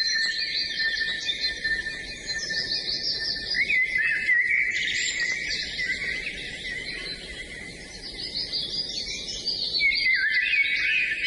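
A chorus of several songbirds singing at once: dense, overlapping high chirps and quick trills, easing off a little past the middle and building again near the end.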